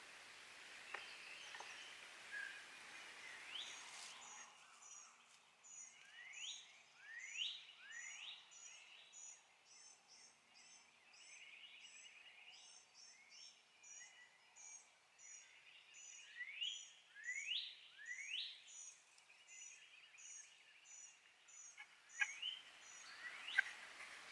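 Wild birds calling outdoors: loud short upward-sweeping notes repeated every second or so, over a steady series of thin high notes about twice a second.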